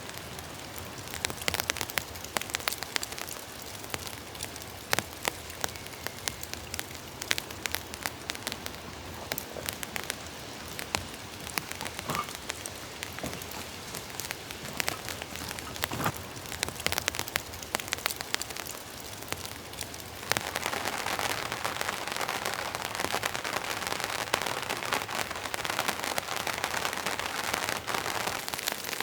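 Rain falling on a tent, with many separate heavy drops ticking sharply over a steady patter. About two-thirds of the way through the rain turns louder and denser.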